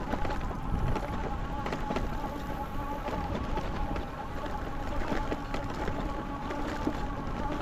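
Folding e-bike being ridden along a dirt trail: a steady electric motor whine over the rumble of tyres on the ground, with scattered clicks and rattles.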